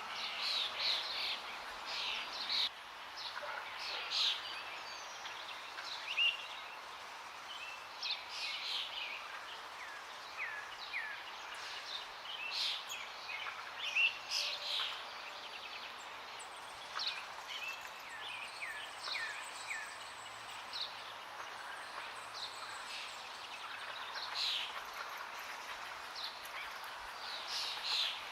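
Several songbirds chirping and calling, with short notes and quick falling slurs, over the steady rush of flowing water in a forest.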